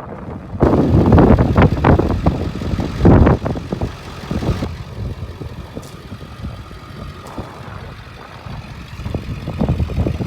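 Diesel engine of a Ford E450 box truck idling, with heavy wind buffeting the microphone in the first few seconds and again near the end.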